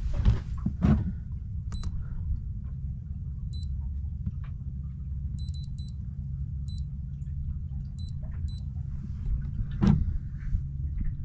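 Short high electronic button beeps, about eight spread irregularly over several seconds, from a sailboat's instrument display being keyed through its speed and wind readings. Under them runs a steady low rumble, with a couple of knocks near the start and one near the end.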